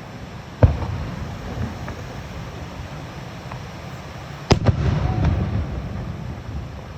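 Fireworks shells bursting: one boom about half a second in, then a louder boom a little past the middle, followed by a short run of smaller pops, over a steady low rumble.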